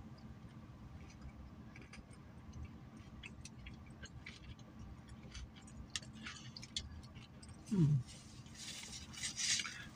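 A person quietly chewing a hash brown, with small wet mouth clicks, a short falling 'mm' a little before the end, and a brief rustle near the end.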